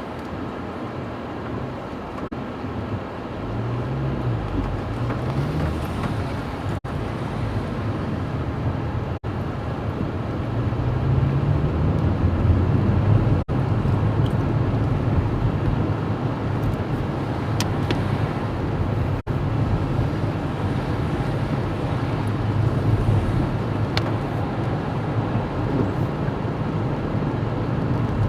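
A car running on the road: a steady rumble of engine and road noise, with the engine note climbing twice as it accelerates, once about four seconds in and again around ten seconds in. The sound cuts out briefly several times.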